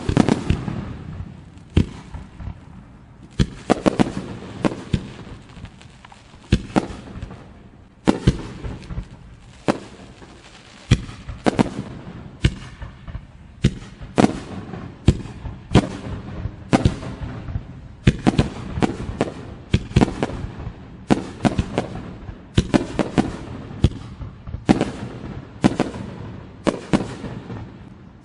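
Aerial fireworks bursting in a long run of sharp bangs, roughly one or two a second, each trailing off in crackle and echo.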